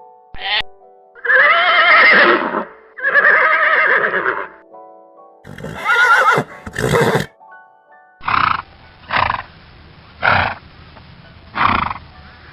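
Horse neighing: four loud whinnies with a wavering pitch, over light background music. From about eight seconds in, a run of short breathy blasts comes about a second apart.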